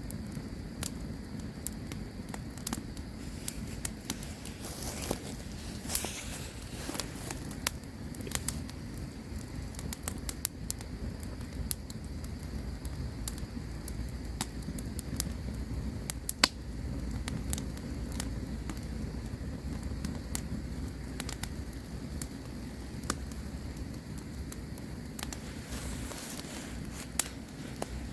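Campfire crackling: irregular sharp pops and snaps of burning wood over a steady low rush of flames.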